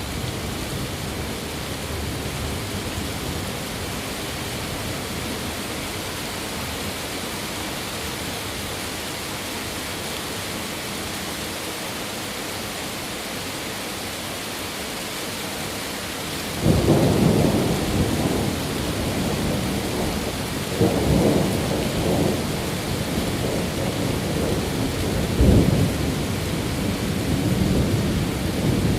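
Steady rain hissing, then a little past halfway a roll of thunder breaks in suddenly and rumbles on over the rain, swelling again twice with a louder peak near the end.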